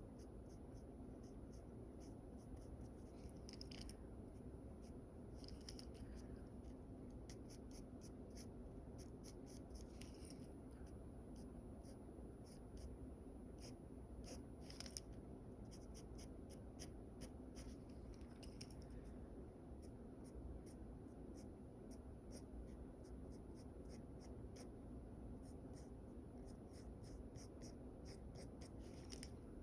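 Faint drawing strokes on paper: many short, quick scratches in flurries, some stretches busier than others, over a steady low room hum.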